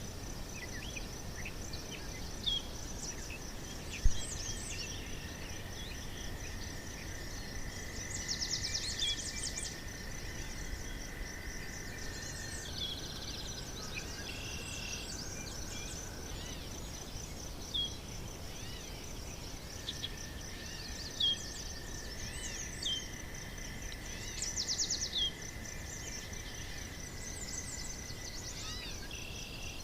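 Natural outdoor ambience: a steady high insect trilling throughout, with scattered bird chirps and two quick bird trills, one near the middle and one near the end. A brief low thump about four seconds in.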